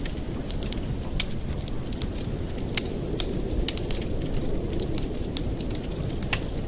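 Campfire burning: a steady low rush under frequent, irregular sharp crackles and pops from the burning wood.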